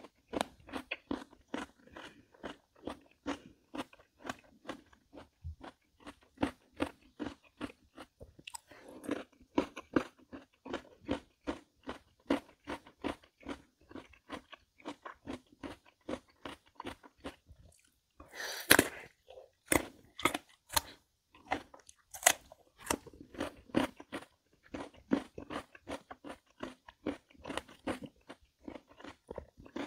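Close-miked chewing of crisp chamoe (Korean melon), with rapid, even crunching chews and a louder burst of crunching about two-thirds of the way in.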